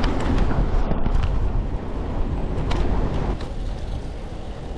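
Wind buffeting the microphone on a moving bicycle, a loud low rumble mixed with street noise and a few light clicks and rattles. It eases somewhat after about three and a half seconds.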